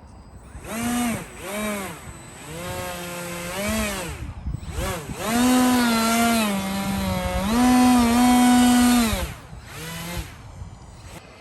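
Small electric motor of an RC model revving in several runs. Its pitched buzz climbs and falls with the throttle and holds steady for a couple of seconds at a time, loudest in a long run near the middle.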